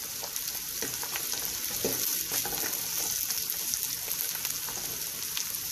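Sliced onions, cashews and raisins sizzling in ghee in a pan, with a steady hiss, while a wooden spatula stirs them, giving a few light scrapes against the pan.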